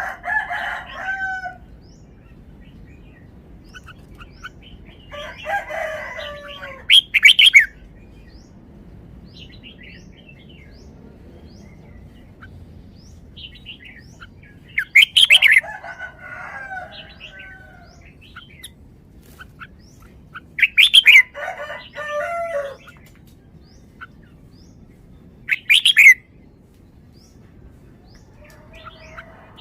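Red-whiskered bulbul singing loud, short, chirpy song phrases, about five of them a few seconds apart.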